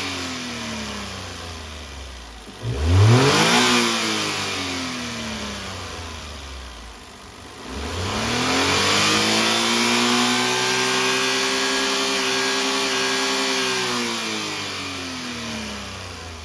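Daihatsu KF-VE three-cylinder kei engine being revved: a quick blip about three seconds in that falls back, then the revs rise and are held up for about five seconds before dropping back toward idle near the end.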